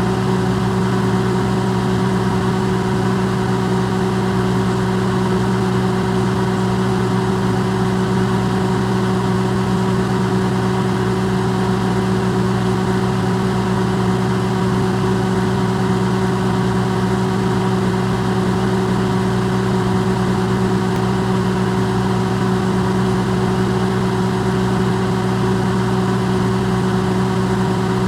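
Electrolux microwave oven running, recorded up close and amplified: a steady, unbroken hum of several held low tones over an even whirring hiss.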